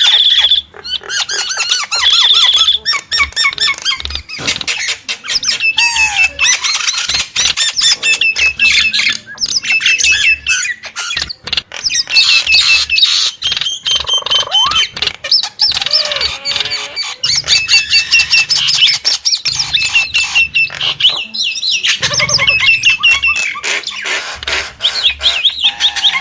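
Nias starling singing: a rapid, unbroken stream of chattering squawks, short whistles and clicks.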